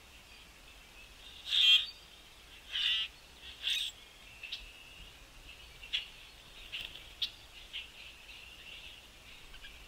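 Small birds chirping with short, high calls throughout, with three louder rasping calls close together between about one and a half and four seconds in.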